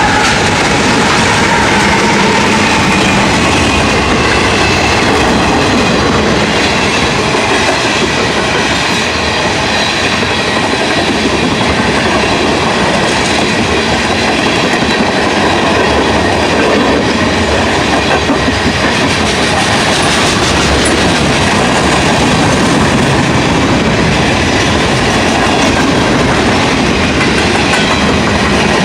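Freight train rolling past close by: steel wheels clacking over the rail joints in a steady, loud rumble of passing cars.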